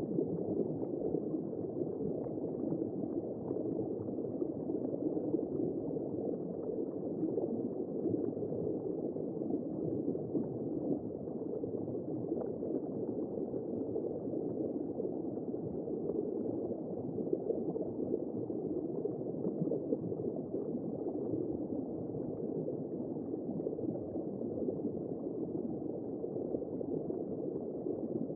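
Simulated womb sound for soothing a newborn: a steady, muffled whooshing noise with no high tones and no breaks.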